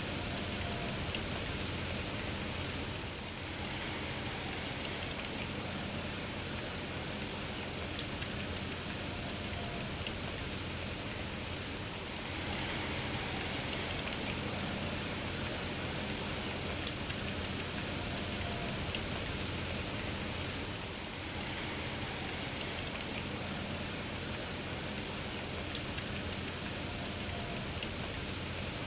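Steady rain falling, swelling and easing slightly every few seconds, with three sharp single ticks about nine seconds apart.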